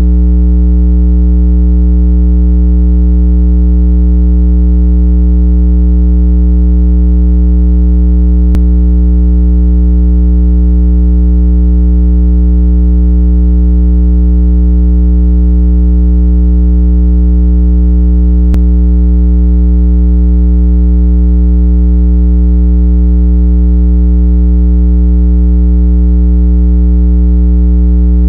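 Speaker water-eject tone: a loud, continuous low electronic hum pitched around 165 Hz, with a stack of overtones, holding perfectly steady throughout. It is played to shake trapped water out of earbud and phone speaker grilles.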